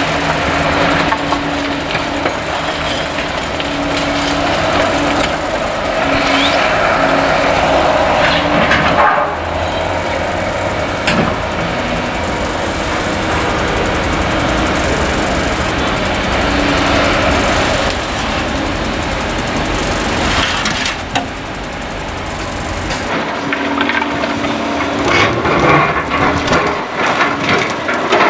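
Caterpillar excavator's diesel engine running steadily while it works demolition debris, with stretches of crunching and cracking a few seconds in and again near the end, and a sharp crack about eleven seconds in.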